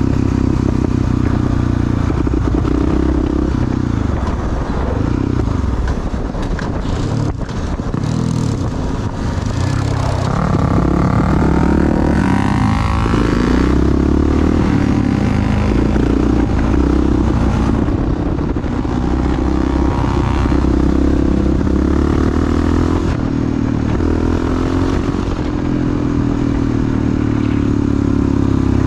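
Single-cylinder four-stroke dual-sport motorcycle engine running while riding, the engine note holding steady, then dropping and climbing again about ten to fourteen seconds in as the throttle is eased and reopened.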